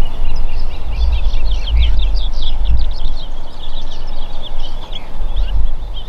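Small birds chirping, many quick high calls overlapping throughout, over a heavy low rumble.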